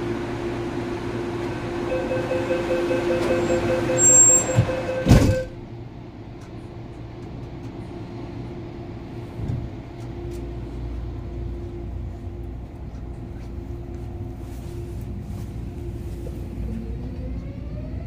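Door-closing warning tone on a CAF-built MTR Airport Express train, ending about five seconds in as the sliding doors shut with a thud. The cabin then hums steadily, and near the end a rising motor whine starts as the train pulls away.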